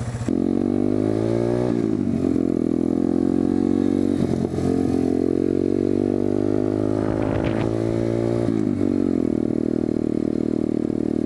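SSR125TR pit bike's 125cc four-stroke single-cylinder engine under way. Its pitch climbs, drops sharply about two seconds in, holds, then falls again near the end and settles into a steady lower note.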